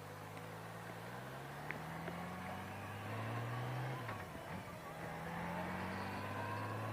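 Motorcycle engine running under way, its pitch climbing slowly, with a brief dip about four seconds in before it rises and holds steady again.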